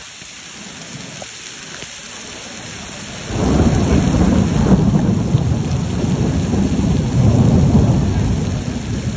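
Heavy rain falling in a steady hiss. About three seconds in, a much louder, deep rumbling storm noise comes in on top of the rain and carries on, easing slightly near the end.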